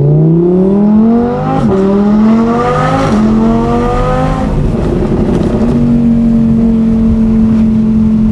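Audi R8 V10 with a straight-through Quicksilver Titan exhaust accelerating hard, its pitch climbing through the gears with two quick upshifts about a second and a half apart. About halfway through it lets off and settles to a steady cruising note.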